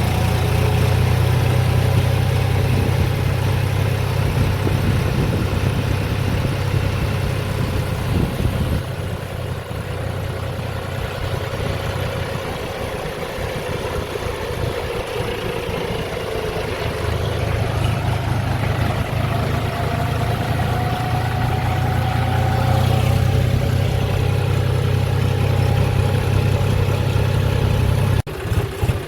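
Diesel engine of farm harvest machinery running steadily with a low drone, with a faint, slowly wavering higher whine over it. The drone weakens for several seconds in the middle, then comes back, and the sound changes abruptly just before the end.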